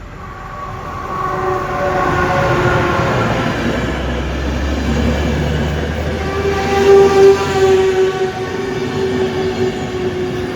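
Siemens Vectron electric locomotive pulling in with its train, its traction equipment whining in several tones that slowly drift down in pitch as it slows. The sound grows from about a second in and is loudest around seven seconds in.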